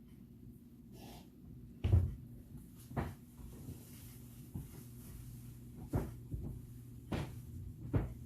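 Jewelry-making supplies handled and set down on a tabletop: about five short knocks a second or so apart, the first the loudest, over a steady low hum.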